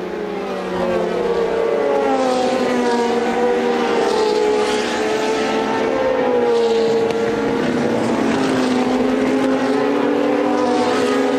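Several 1982 Formula One racing cars' engines running at high revs, a few engine notes overlapping and rising and falling.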